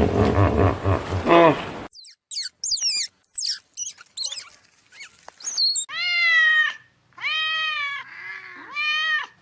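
Animal calls: a busy run of lower calls for about two seconds, then quick high chirps, then three long pitched calls that rise and fall, with a fainter lower call between the last two.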